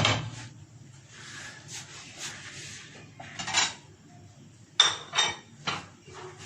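A cooking utensil scraping and clinking against a pot of mashed pear paste, with a few sharp clinks about five seconds in.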